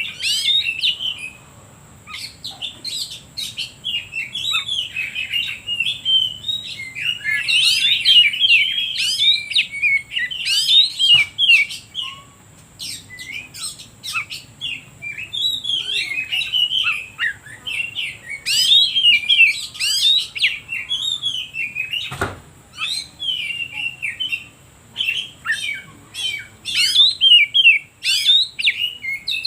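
Oriental magpie-robin (kacer) singing continuously in full voice: a long, varied run of rapid chirps, whistles and trills with only brief pauses. A single sharp click comes about two-thirds of the way through.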